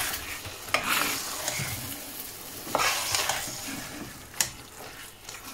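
Freshly added raw chicken mince sizzling in hot oil and spiced tomato masala in a stainless steel saucepan as it is stirred with a metal spoon, the spoon knocking against the pan a few times.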